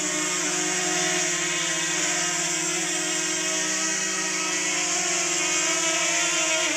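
DJI Mavic Mini quadcopter's motors and propellers whining steadily up close as the drone comes in to land, a buzzy hum with a hiss above it.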